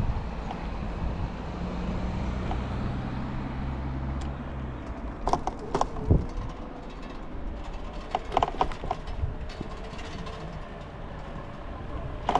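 Riding noise from a motorized bike: steady road and wind rush, with a low steady hum that stops about five seconds in and a few short sharp knocks midway.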